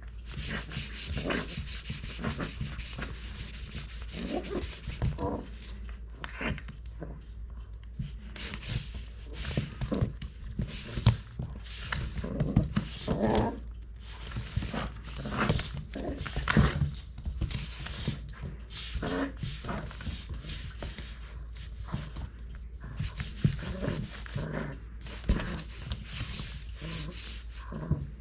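Cocker spaniel puppy playing, with continuous irregular scuffling and rubbing sounds and occasional small noises from the puppy.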